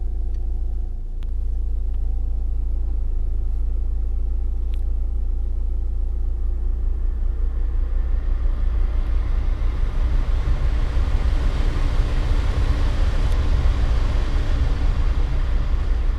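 Nissan Juke's 1.5 dCi four-cylinder turbodiesel running with a steady low rumble; about halfway through its note rises a little and its noise builds steadily.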